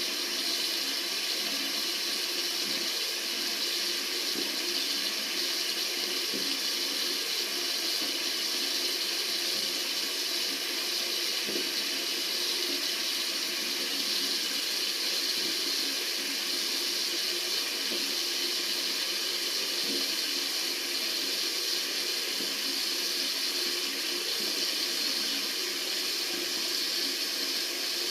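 Tap water running steadily from a faucet into a sink, an even hiss that neither rises nor falls.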